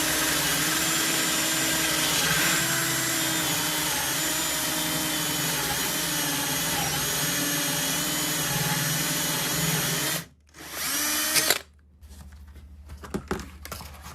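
Power drill boring a hole through a porcelain tile countertop, its motor whine wavering as it works under load. It stops about ten seconds in, runs again for about a second, then stops, leaving a few faint clicks.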